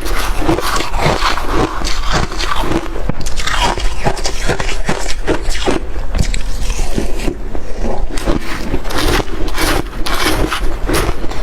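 A person biting and chewing shaved ice and freezer frost, with continuous crisp crunching that eases slightly about seven seconds in.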